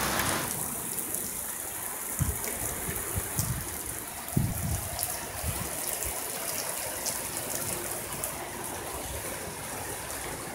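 Heavy rain pouring down steadily, with a few low thumps, the loudest about four and a half seconds in.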